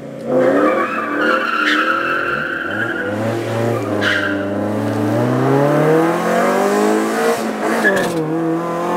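Cars launching hard from a standing start at full throttle, engine note climbing steadily in pitch and dropping at a gear change about eight seconds in. Brief high-pitched squeals come about one and a half and four seconds in.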